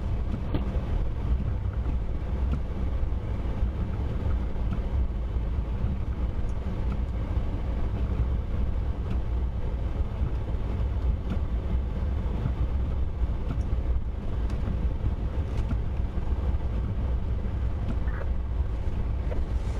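Steady low rumble of a vehicle driving, unchanging throughout, with a few faint ticks.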